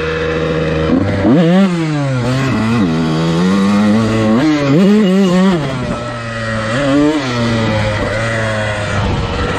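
Dirt bike engine revving while riding. Its pitch climbs sharply and falls back several times, as the throttle is opened and closed and the bike shifts gears.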